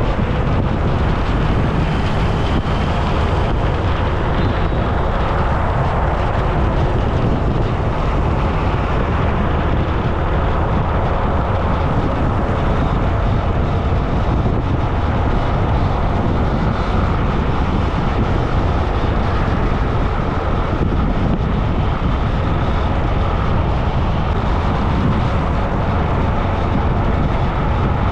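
Steady rush of wind on an action camera's microphone, mixed with road noise, while riding along a road.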